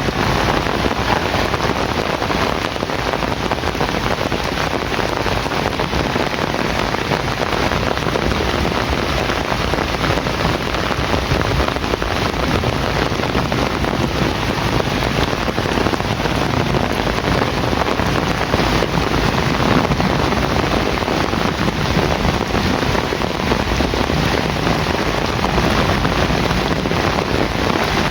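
Heavy rain falling steadily, an even, unbroken hiss with no single drops or rumbles standing out.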